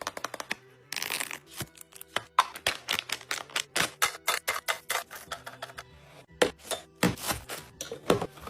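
Rapid clicks and taps of kitchen items and containers being handled and set down during restocking, with a brief rustle about a second in.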